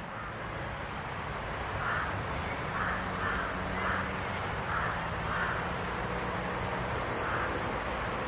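A bird calling: about seven short, rough calls at irregular gaps of half a second to two seconds, over a steady low background hum.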